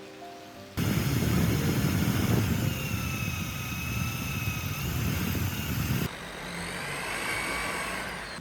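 Electric power tool running with a motor whine, starting abruptly about a second in. Near the end it drops to a quieter run with a higher whine.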